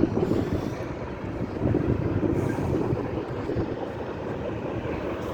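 Canadian Pacific freight train rolling past, a steady rumble of the cars' wheels on the rails.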